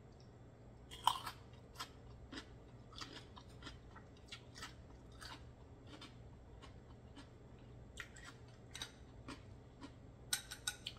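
Close-miked chewing of raw oyster: soft, wet mouth clicks and smacks at irregular intervals. A few sharper clicks near the end as chopsticks dip into a glass of sauce.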